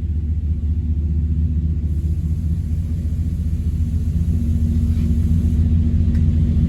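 Mopar 400 big-block V8 running steadily at low speed on an engine dyno between pulls, a deep even rumble that grows a little louder near the end.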